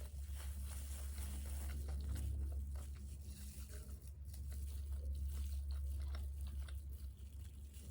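Close-miked chewing of crispy fried food, with many small sharp crunches as the breading breaks between the teeth. A steady low hum runs underneath.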